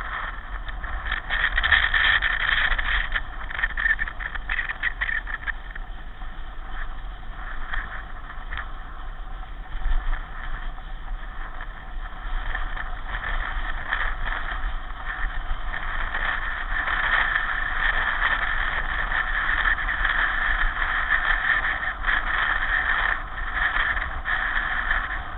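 Steady rolling and running noise of a pedal car in motion, with a low rumble underneath.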